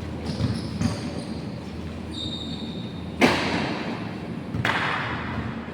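Sounds of a basketball game in a gym: a sharp thud about three seconds in and a broader thump about a second and a half later, over steady low background noise with a few brief high squeaks.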